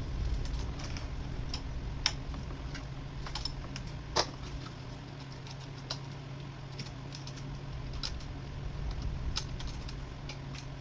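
Scattered small clicks and clinks of hand tools or metal parts being handled, the loudest about two and four seconds in, over a steady low hum.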